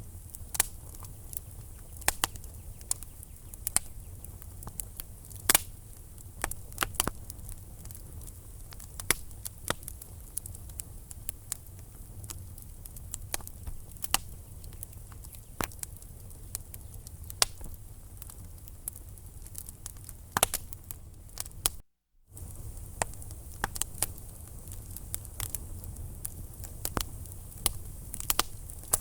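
Wood fire in a fireplace crackling: irregular sharp pops and snaps from the burning logs over a steady low rumble of flame. The sound drops out for a split second about three quarters of the way through.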